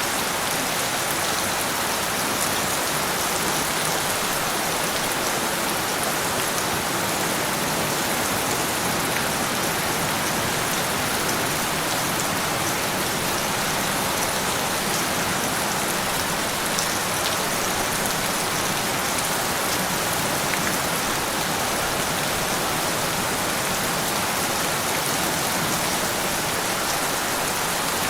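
Steady rain falling on a surface, an even hiss with scattered drop patter and no thunder.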